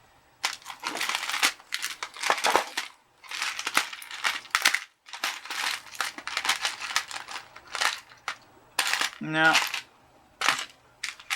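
Small spare model-locomotive drive-shaft couplings and parts rattling and clinking together as they are sifted through by hand, in quick runs of light clicks with a short pause midway.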